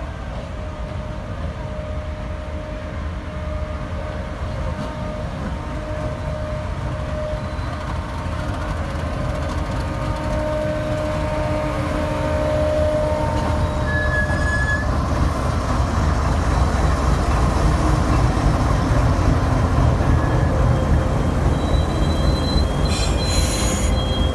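GEU-40 class diesel locomotive No. 9008 and its passenger coaches rolling into a station, a steady low rumble that grows louder as the locomotive and train pass close by. High-pitched wheel squeal comes in near the end as the train slows to a stop.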